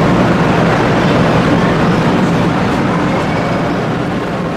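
A 500 series Shinkansen train running: a steady rushing noise with a low hum underneath, slowly fading.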